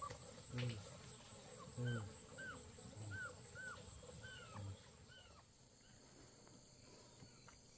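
Faint animal calls: low grunts about every second and a quarter, and a quick series of short, arching chirps in the middle that stop about five seconds in.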